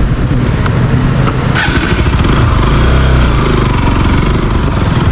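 Motorcycle engine running steadily while riding, with wind rushing on the microphone.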